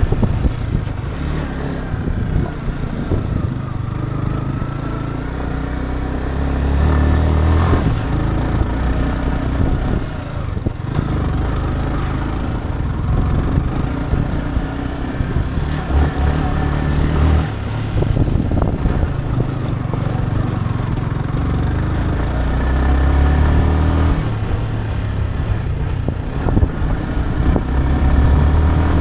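Motorcycle engine running as the bike rides over rough track. The engine note rises and falls with throttle and gear changes, in several louder surges.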